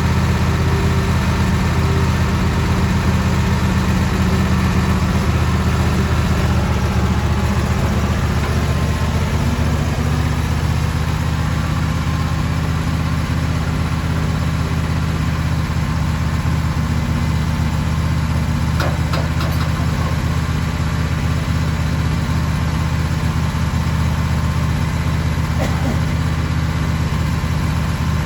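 An engine idling steadily, with a couple of light clicks in the second half.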